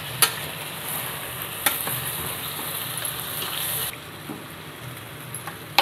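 Spiced chicken masala sizzling as it fries in a pot while it is stirred, with three sharp clinks of the spoon against the pot; the sizzle drops off about four seconds in. The chicken has been fried dry (bhuna) and is ready for water to be added for the gravy.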